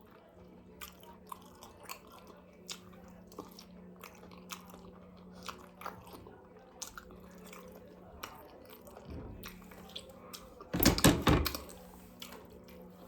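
A person chewing and biting food, with scattered small clicks. About eleven seconds in there is a short cluster of louder knocks.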